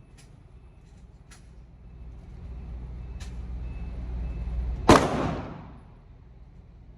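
A low rumble builds for a few seconds, then a single loud pistol shot goes off about five seconds in and echoes off the indoor range for about a second. Faint, distant shots come before it.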